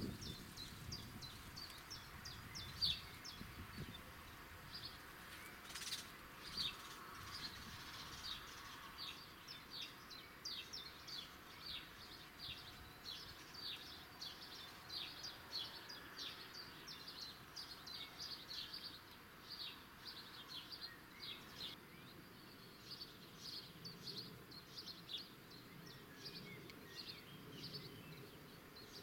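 Small birds chirping: a steady run of short, high, quick notes over faint outdoor background noise, with one sharp click about six seconds in.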